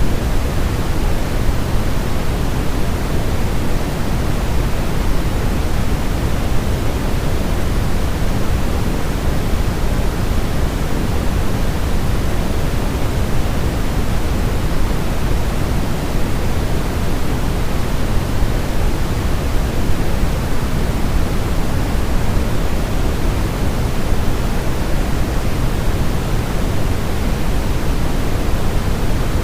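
Steady, unbroken synthetic noise for baby sleep, fuller in the low end than in the highs, like pink noise, with no change throughout.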